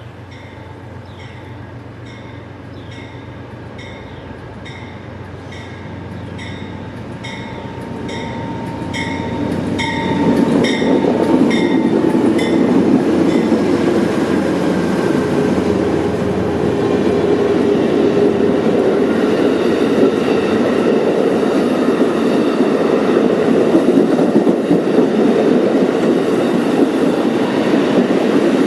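Westbound Amtrak Capitol Limited passenger train approaching and passing. A bell rings steadily at about one and a half strikes a second and stops about twelve seconds in. Meanwhile the train's rumble grows louder for about ten seconds, then stays loud as the train goes by.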